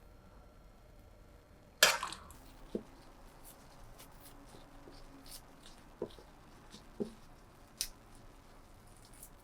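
Scattered knocks and light clicks of kitchen items being handled, the loudest a sharp knock about two seconds in, then a few softer taps spread over the rest.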